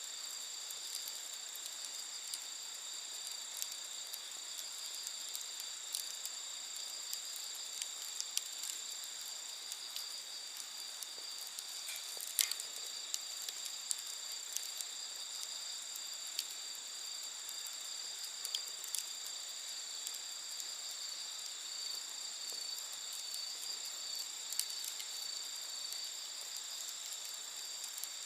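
Wood fire crackling with scattered small pops, one sharper pop about halfway through, over a steady high chirring of insects such as crickets.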